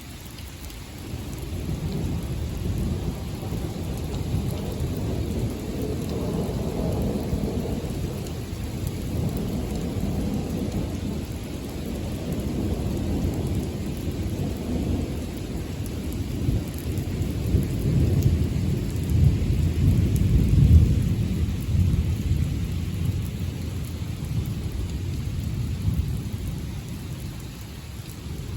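Long rolling thunder rumbling for most of the stretch, building from about a second in, loudest around twenty seconds, then fading, over steady rain.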